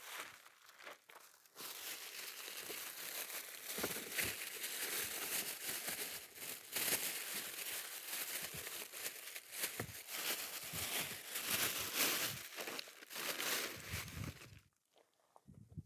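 Steady rustling and crinkling full of small crackles, starting about a second and a half in and stopping suddenly a second before the end.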